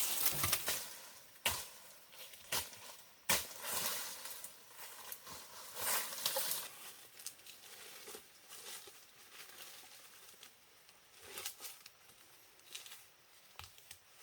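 Irregular rustling with scattered sharp knocks and snaps, loudest in the first half and thinning out toward the end.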